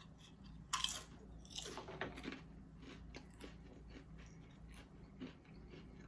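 A person biting into and chewing crunchy barbecue potato chips: one sharp crunch about a second in, a few smaller crunches around two seconds, then softer chewing.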